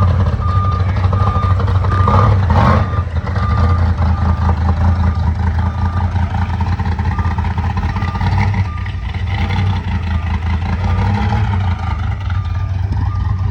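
Car engine idling steadily with a deep, loud note, and a high electronic beep repeating in short pulses over it.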